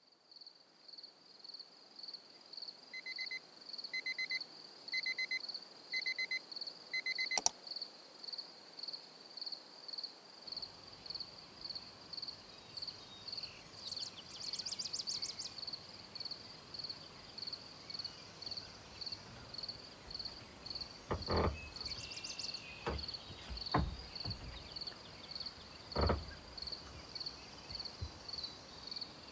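An insect chirping in a steady, even high-pitched pulse, about one and a half chirps a second. A few seconds in comes a run of five lower chirps, brief fast trills sound twice, and there are several dull knocks in the second half.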